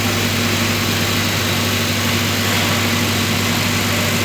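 A large engine running steadily at constant speed, a deep even drone with a fainter higher hum over a wash of machine noise.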